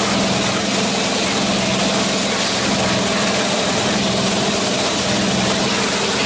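Plastic bottle recycling and washing line machinery running: a steady, unchanging machine drone with a constant hum under a wash of noise.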